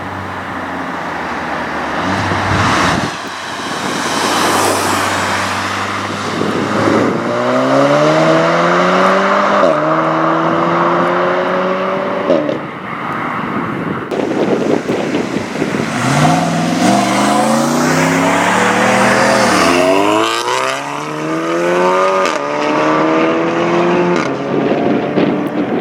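Modified Volkswagen Golf hot hatches accelerating hard twice. The engine note climbs in rising sweeps broken by gear changes: first about a quarter of the way in with one shift, then again from just past the middle with several quick shifts.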